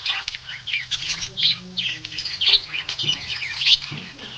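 Pet budgies chirping: a steady stream of short, quick, high chirps and warbles that overlap one another, with no pause.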